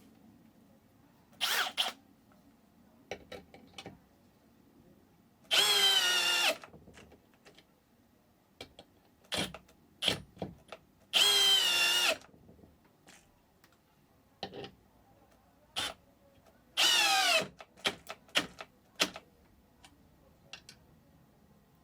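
Bosch GSR 185-Li 18 V cordless drill run three times in short bursts of about a second each, its motor whine steady in pitch. Between runs come scattered clicks and knocks as the tool is handled.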